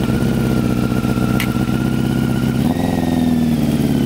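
1994 Honda CBR600 F2's inline-four engine running on the choke while warming up after a cold start. About two-thirds in, the revs rise briefly and then settle back.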